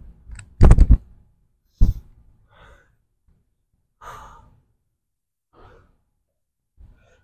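A man breathing hard from exertion, with sighing exhales every second or so. Near the start there is a loud thump made of several quick strokes, and a sharper knock follows about a second later.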